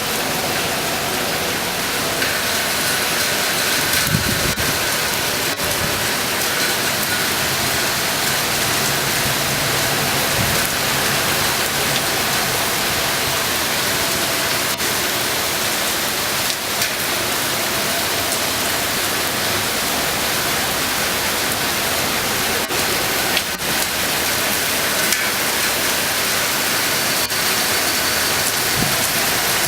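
Heavy rain pouring down steadily: a dense, even hiss, with a few brief knocks now and then.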